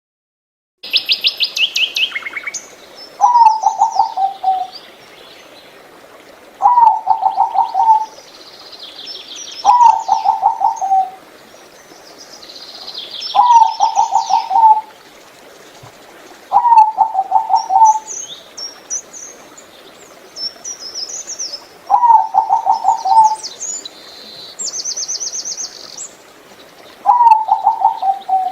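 Zebra dove cooing: seven phrases of quick pulsed coos, each about a second and a half long and a few seconds apart. Higher chirps and trills from other small birds fall between the phrases.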